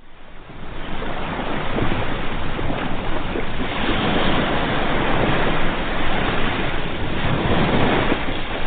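Sea waves breaking and washing on the shore, a steady rushing surf that swells and eases slowly; it fades in from silence over about the first second.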